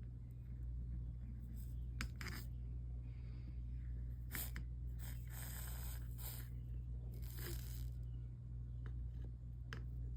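Short bursts of sizzling from a hot soldering iron melting solder over fluxed joints on stained glass, several times, with a few small clicks of handling. A steady low electrical hum runs underneath.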